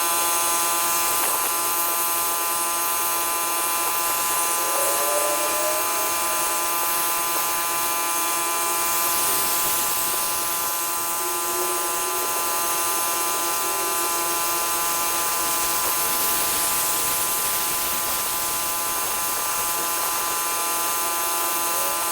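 Pressure washer running steadily: a constant buzzing drone with a hiss of spray over it.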